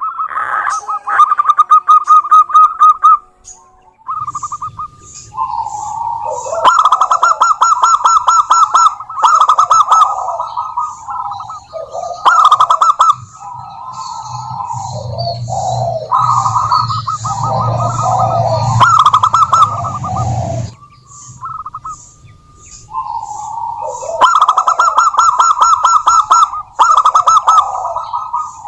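Female zebra dove (perkutut) calling: repeated runs of rapid, staccato cooing notes with short pauses between them. A low hum runs underneath for several seconds in the middle.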